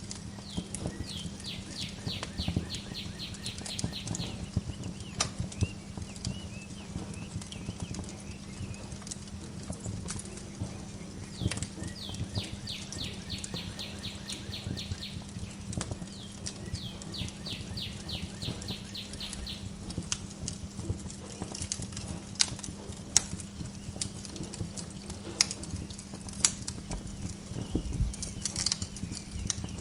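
Wood fire crackling in a fireplace, with irregular sharp pops over a steady low hum. A songbird sings three rapid trills of quick repeated notes: the first about a second in, and two more near the middle.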